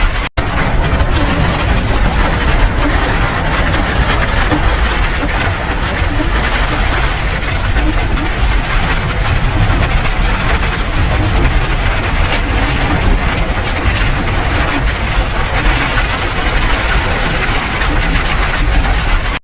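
Steady, dense rain noise with a deep low rumble underneath. It drops out for an instant about a third of a second in, then carries on unchanged.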